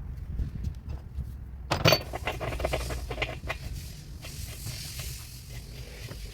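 Metal washing-machine parts being handled and fitted as the tub goes back into a top-load washer: a louder clunk about two seconds in, followed by a run of small metallic clinks and taps, over a low hum.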